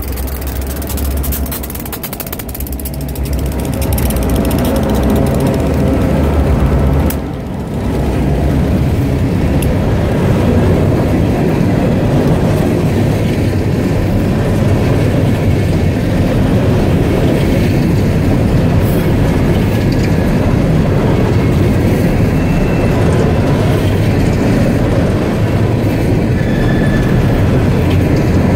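Freight train passing close by: the trailing diesel locomotive's engine drones for the first several seconds, then open-top hopper cars roll past with a steady rumble and clatter of steel wheels on the rails. Thin, high wheel squeals come in near the end.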